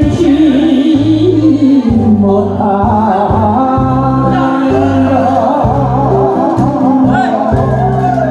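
A man sings a long held note with vibrato over backing music with a steady bass beat. About two seconds in the voice ends and a higher instrumental melody carries on.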